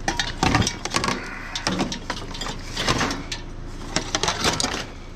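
Scrap being handled and set down on a loaded trailer: a run of clattering knocks and scrapes, loudest at the start and again toward the end.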